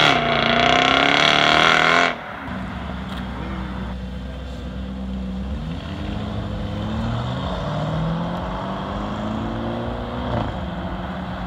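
A car accelerating hard away, its engine note rising under throttle, breaking off abruptly about two seconds in. Then a quieter, steadier engine note of a Lamborghini Urus SUV pulling out and driving off, its pitch rising gently as it picks up speed.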